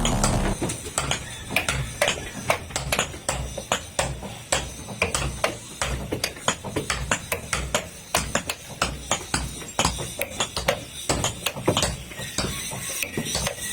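Rapid, irregular sharp taps and knocks, several a second, like something being struck or hammered.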